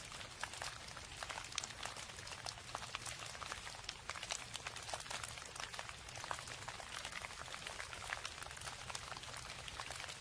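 Steady rain, with many separate drops ticking close together throughout.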